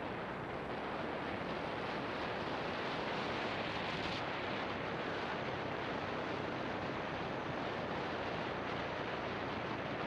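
Steady rush of wind over an action camera's microphone on a moving motorbike, mixed with road and engine noise. The rush holds even, with no distinct engine note.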